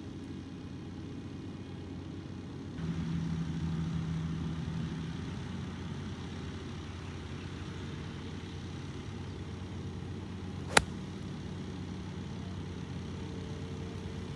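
A steady low engine hum, with one sharp crack of a golf club striking a ball about eleven seconds in.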